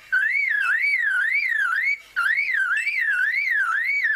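Superb lyrebird mimicking a car alarm: a whistled tone sweeping up and down about two and a half times a second, with a short break about two seconds in.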